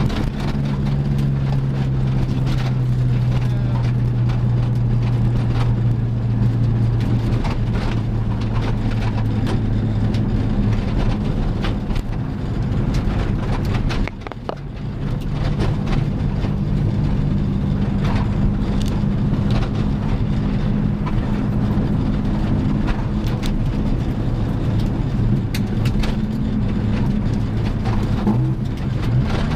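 Volkswagen Golf Mk2 GTI's four-cylinder engine running at fairly steady revs, heard from inside the cabin, over tyre and road noise with frequent small clicks and rattles. About halfway the engine note briefly drops away, then comes back.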